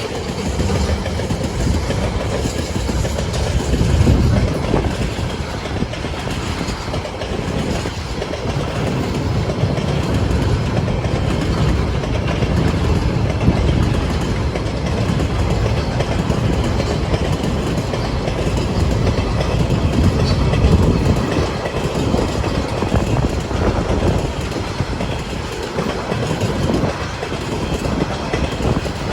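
Tasrail freight train of container and empty log wagons rolling past on the rails: a loud, steady rumble that swells and eases slightly as the wagons go by.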